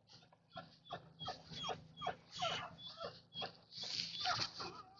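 A dog whining in a quick run of short, rising and falling cries, several a second, over the low steady hum of the car's engine.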